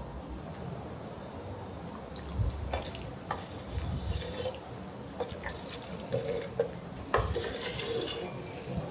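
Water trickling and splashing, with scattered light knocks and clicks; a sharper knock about seven seconds in.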